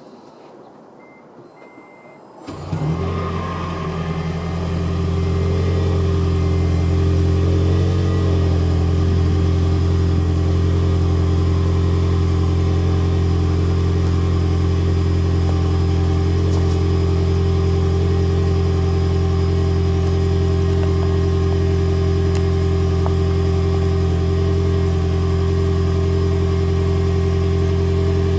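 Toyota Prius 1.8-litre four-cylinder engine starting about two and a half seconds in, then running steadily at a fast idle of around 1200 rpm in maintenance mode, heard through a Tanabe Medallion Touring cat-back exhaust. Before it starts there are a few faint short beeps.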